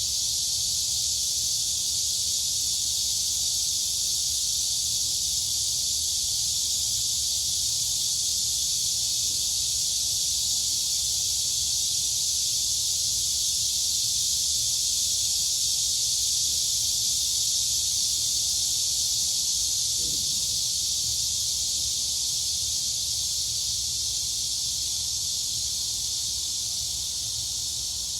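Dense chorus of crickets and cicadas: a continuous, high-pitched shrill buzz with no breaks, over a faint low rumble.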